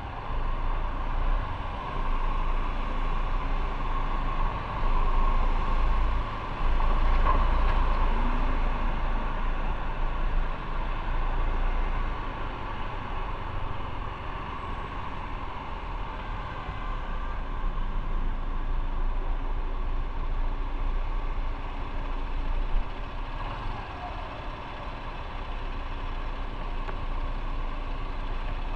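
Motorcycle riding in traffic: a steady engine and road-noise roar that swells and eases over the stretch.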